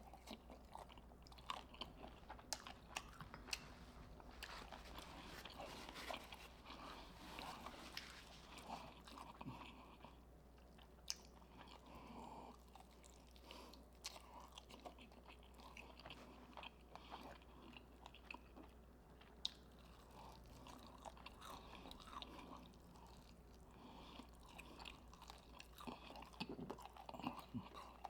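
A person chewing and biting KFC fried chicken, quietly, with many small sharp clicks and wet mouth noises.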